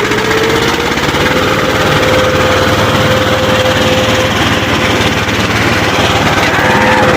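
HMT 2511 tractor's diesel engine running hard, with rapid steady firing and a high whine that rises a little in the first second, then holds steady.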